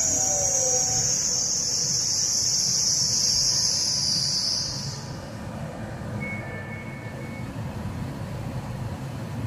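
Trenitalia Pop (ETR 104) electric train drawing to a stop with a steady, high-pitched squeal from its wheels and brakes. The squeal cuts off about five seconds in, leaving the low hum of the standing train.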